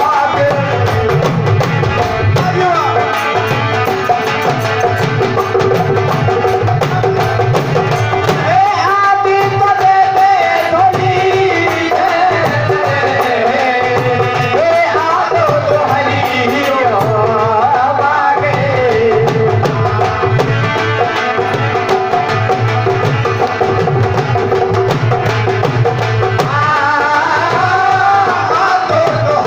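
Rajasthani folk bhajan: a melody sung over steady hand-drum percussion.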